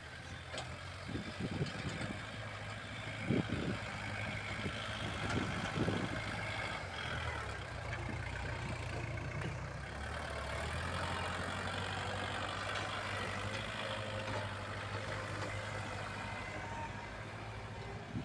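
Kubota L47 tractor loader's diesel engine running steadily while it works soil, with a few dull thumps in the first several seconds and a slight change in the engine note about ten seconds in.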